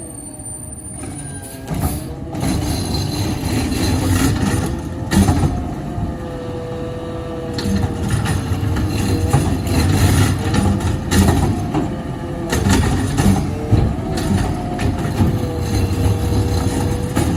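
Garbage truck working, its engine running under a steady, slightly wavering whine, with several sharp clanks and knocks.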